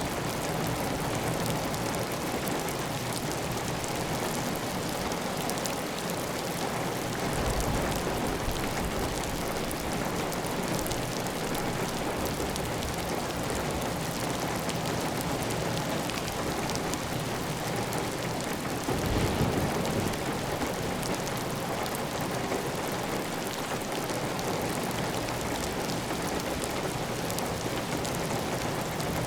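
Heavy, steady rain on a clay tile roof, with water running off the roof edge. A brief low rumble comes twice, about seven and nineteen seconds in.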